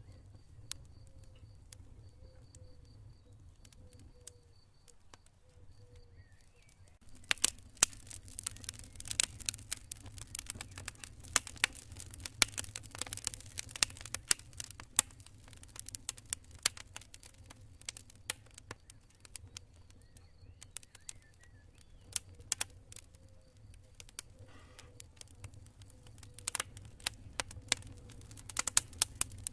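Campfire crackling: sharp pops and snaps, sparse at first and coming thick from about seven seconds in, over a steady low rumble. A faint repeated high chirping of crickets sounds at the start and again later.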